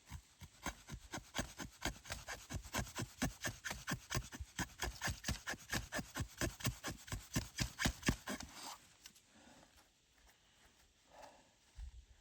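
Hand saw cutting through wood in quick, even back-and-forth strokes, about five a second, stopping about three quarters of the way through.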